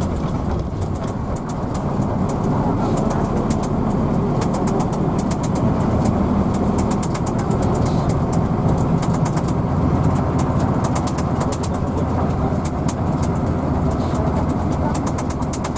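Hino AK bus engine and road noise heard from inside the moving bus, a steady low rumble, with quick light rattling ticks throughout.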